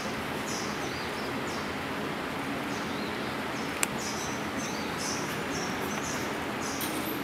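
Small birds chirping again and again over steady background noise, with one sharp click about four seconds in.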